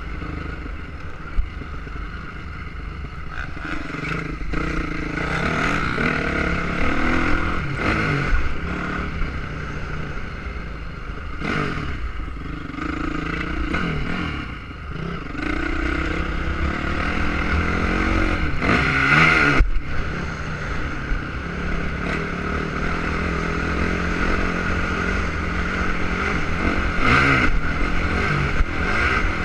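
Motocross motorcycle engines revving up and down as the bikes ride the track, the pitch rising and falling again and again, loudest about nineteen seconds in.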